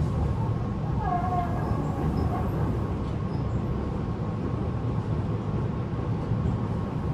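Running sound inside a Tobu 9050 series motor car: a steady rumble of wheels on rail, with a faint tone from its Toyo GTO-thyristor VVVF inverter and the air conditioning running.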